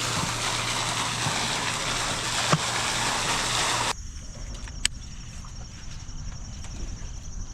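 A boat motor running with a steady rushing noise and a low hum, cutting off abruptly about four seconds in. After that, a quieter background with a steady high insect trill.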